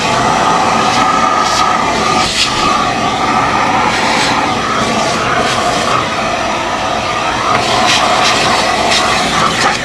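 Kärcher MV6 P Premium wet-and-dry vacuum cleaner running steadily with a high motor whine, with short scratchy noises now and then as it works.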